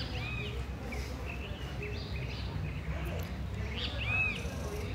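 Birds chirping now and then in short calls over a steady low background rumble.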